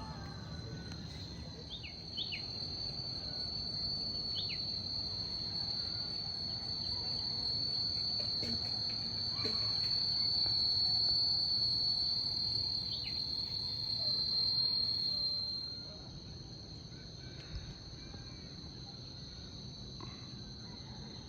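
Insects droning, one steady high-pitched buzz that swells through the middle and fades out about sixteen seconds in.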